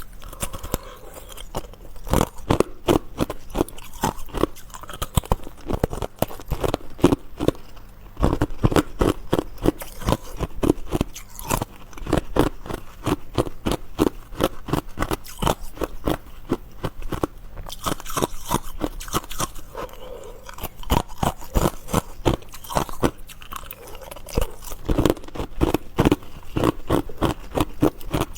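Close-miked chewing of crunchy food: a dense, continuous run of crisp crackling crunches, several a second.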